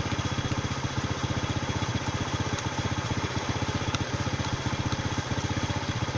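Motorcycle engine running steadily at low revs in fourth gear, turning the chain, with an even, quick pulsing beat.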